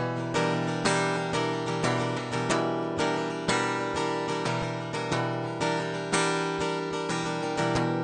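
Acoustic guitar strummed in a steady rhythm, about two strokes a second, between sung lines of a song.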